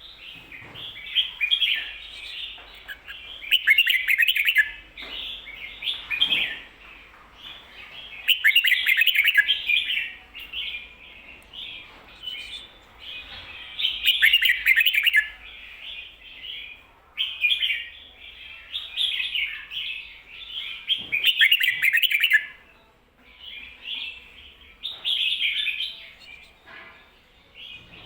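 Red-whiskered bulbul singing its doubled 'ko-ta-ra' song phrase: loud, clear phrases every few seconds, with softer chattering notes between them.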